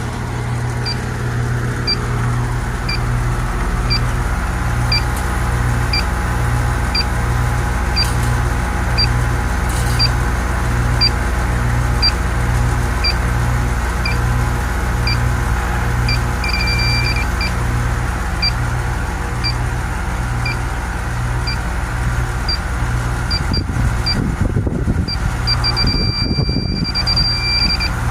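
Air conditioner's outdoor unit running with a steady, regularly pulsing hum, while an electronic refrigerant leak detector ticks with short high beeps about once a second. Twice the beeps run into a held tone, about 16 s in and again from about 25 s on: the detector alarming at a refrigerant leak from a burnt-up service valve. Low rumbling, like wind or handling on the microphone, comes in a few seconds before the end.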